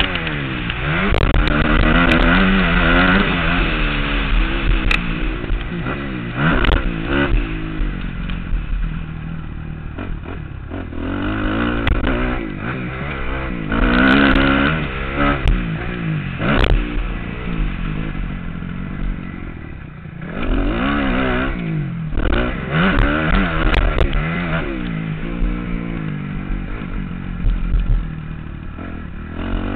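Motocross bike's engine heard from the rider's helmet, revving up and backing off again and again as the throttle is worked through the track, with wind on the microphone and occasional clatter and knocks from the bike.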